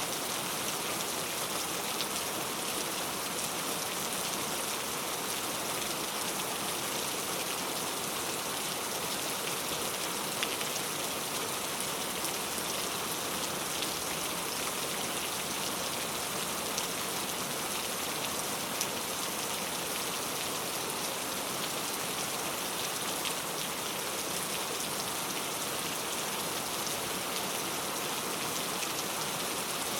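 Heavy rain falling steadily on mango tree leaves: a dense, even hiss with scattered sharper drop ticks.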